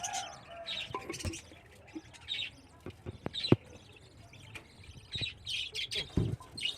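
Lovebirds chirping in short, high, repeated bursts, with a few sharp clicks or knocks among them, the loudest about three and a half seconds in.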